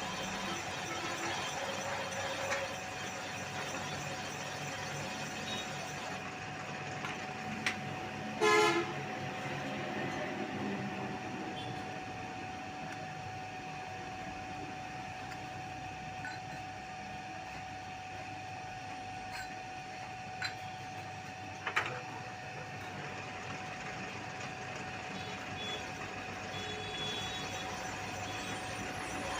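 Machine tool running steadily with a constant whine while cutting a motorcycle cylinder sleeve, with a few sharp clicks and one brief ringing squeal about eight seconds in.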